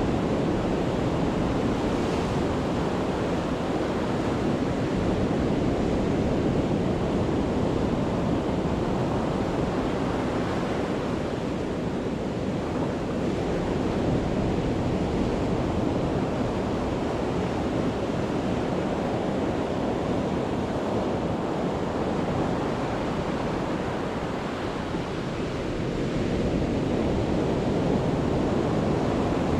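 Sea waves breaking and washing on the shore at high tide, a continuous rushing surf that swells and eases slowly, with wind buffeting the microphone.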